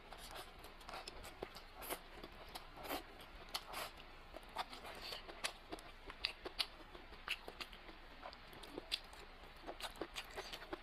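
Close-miked eating sounds: irregular soft crunches, smacks and small clicks, a few a second.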